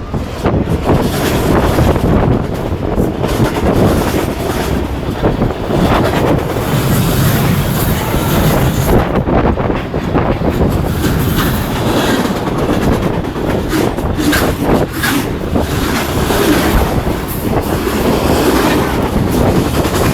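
A train passing close by at speed, its wheels clattering steadily over the rails.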